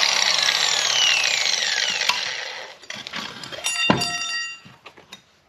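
Power cutting tool spinning down, its whine falling in pitch as it fades, right after cutting through steel exhaust pipe. About four seconds in, a sharp metal clang that rings briefly.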